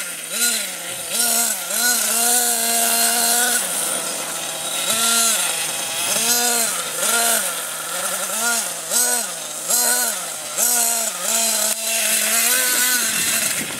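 Nitro RC monster truck's small two-stroke glow engine revving in repeated throttle blips, its pitch rising and falling about once every second or less, with a longer held rev early on.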